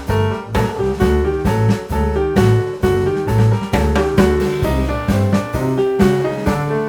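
Background music: jazzy piano tune over bass and drums, with a steady beat.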